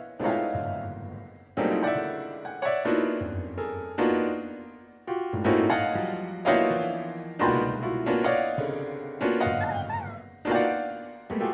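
Slow, sad piano music: chords struck about once a second and left to die away, with a brief wavering cry about ten seconds in.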